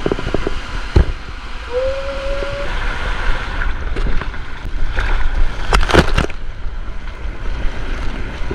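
Pool water sloshing and splashing, with a few knocks and a short steady tone about two seconds in.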